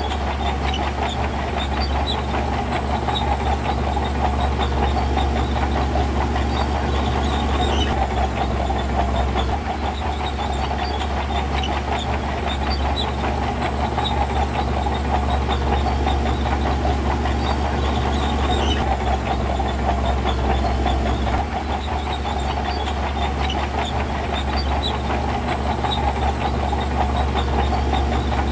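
Diesel engine of heavy earthmoving machinery running steadily under work, a constant low rumble with a dense rapid clatter over it.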